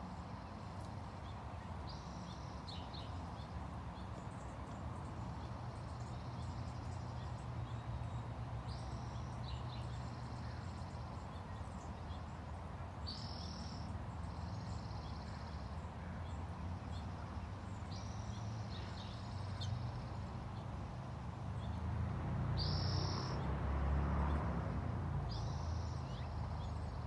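A bird calling in the background: short high calls, often in pairs, repeated every few seconds. A steady low rumble runs beneath and grows louder near the end.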